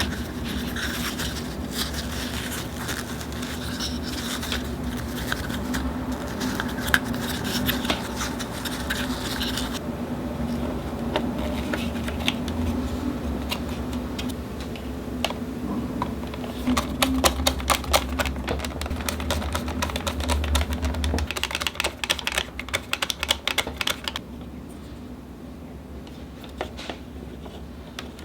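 Rapid clicking and tapping of hard plastic parts being handled, over a steady hum and hiss. The hum and hiss cut off about three-quarters of the way through, and sparse clicks go on after.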